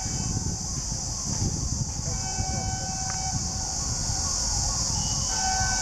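Indian Railways ALCO diesel locomotive running: a heavy low rumble under a steady high hiss, with a high multi-note tone that sounds for a second or two at a time, twice, and again near the end.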